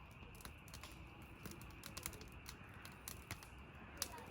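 Scattered sharp clicks and snaps at an uneven pace, several a second, over a faint steady hiss.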